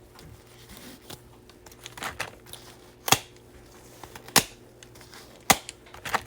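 Foil wrapper of a Bowman baseball card pack being torn open and handled: scattered crackles and sharp snaps, the three loudest in the second half about a second apart.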